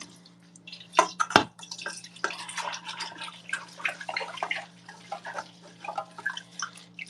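Dishes being washed by hand at a sink: running and dripping water with irregular clinks and clatters of dishware, the sharpest two about a second in. A steady low hum runs underneath.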